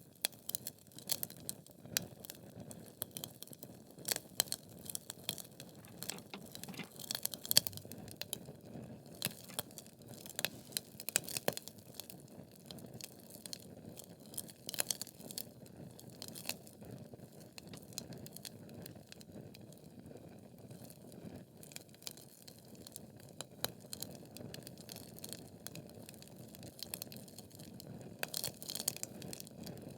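Wood fire burning in a fireplace: logs crackling with irregular sharp pops and snaps over a low steady rush of flame.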